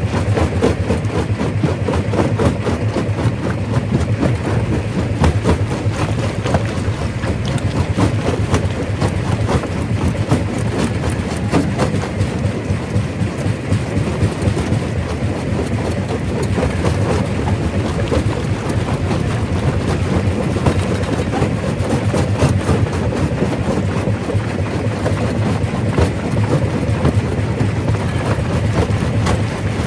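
Primary rock crusher working: rocks cracking and knocking against each other and the machine in quick, irregular succession, over a steady low running noise.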